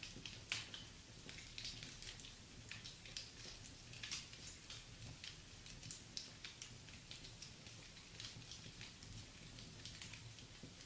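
Wood fire crackling: frequent small irregular pops and snaps over a steady low rumble.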